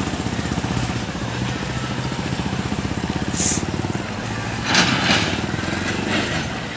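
Diesel tractor engine running steadily close by, its firing pulses even throughout. A brief high hiss comes about halfway through, and a louder noisy burst follows soon after.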